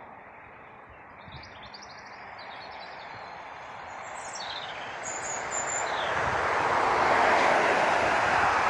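Jet aircraft engines swelling steadily louder as the plane draws near, reaching their loudest near the end. Small birds chirp over it in the first half.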